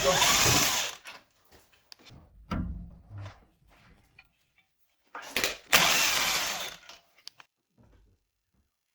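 A power tool running in two bursts of about a second and a half each, one at the start and one about five seconds in, with a few softer knocks in between.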